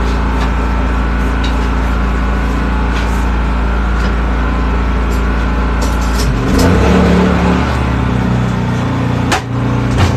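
Steady drone of the service truck's air compressor engine running. About six seconds in its pitch shifts and it gets somewhat louder, and there is a sharp click near the end.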